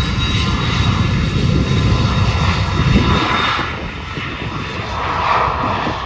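Jet aircraft engines running loud, a heavy rushing noise with a faint steady whine above it.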